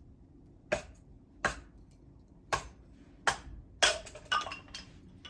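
A series of about seven sharp knocks and clinks of hard objects, spaced apart at first and coming closer together near the end, some with a brief ring.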